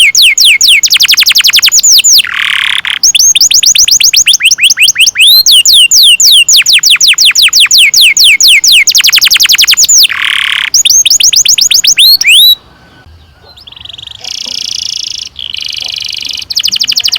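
Domestic canary singing long rolling trills of fast, rapidly repeated whistled sweeps, broken twice by a short harsh note. The song drops to a brief lull about twelve seconds in, then picks up again with a buzzing roll.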